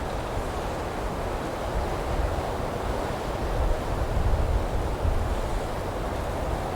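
Wind blowing through pine trees, a steady rushing that swells and eases slightly, heaviest in the low range.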